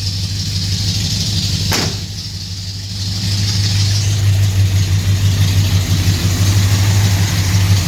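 1974 Suburban engine idling steadily through headers and a tacked-together exhaust. There is a single sharp click about two seconds in, and the idle sounds louder from about three seconds on.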